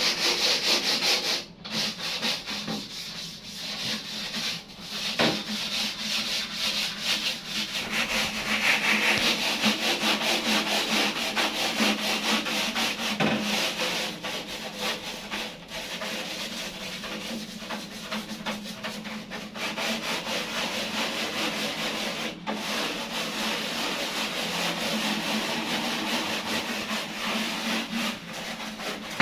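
Continuous scrubbing: a brush or pad rubbed back and forth over a hard surface in quick, closely spaced strokes, with a faint steady hum underneath.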